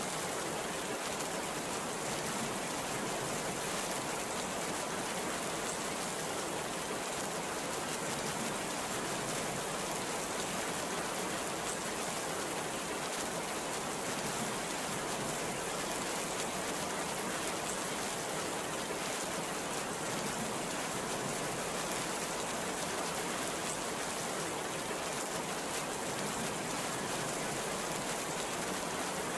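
Very heavy rain falling steadily, an even, unbroken hiss with no thunder.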